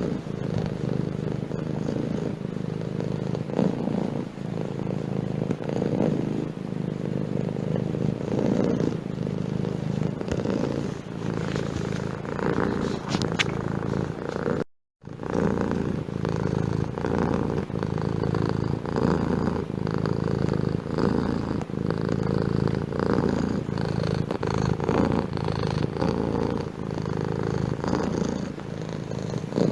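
Domestic cat purring steadily and rhythmically, close up. About halfway through the sound drops out completely for half a second, then the purring resumes.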